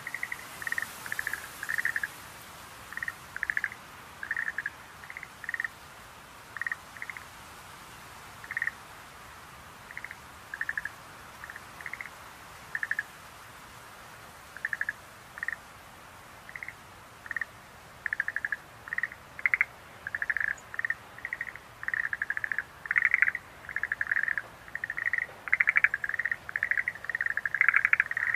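Schlegel's green tree frogs calling: short, rattling croaks repeated at irregular intervals, coming thicker and overlapping toward the end.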